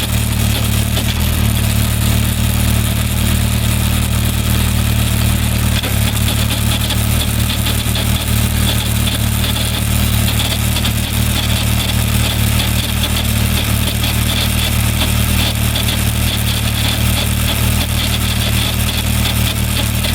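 Suzuki Bandit 1200's inline-four engine running steadily, without revving up or down, in fifth gear, the gear in which the owner hears a strange noise.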